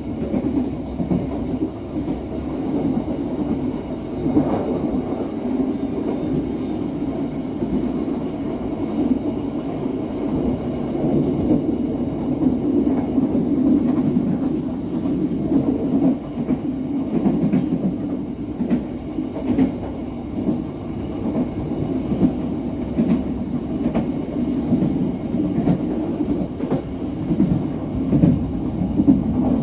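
Passenger train running along the line, heard from the rear end of the train: a steady rumble of wheels on rails, with scattered clicks over rail joints that come more often in the second half.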